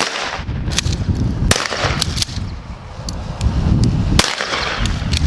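Shotguns firing at a passing flock of birds: several sharp shots in quick, irregular succession, over the low rumble of wind on the microphone.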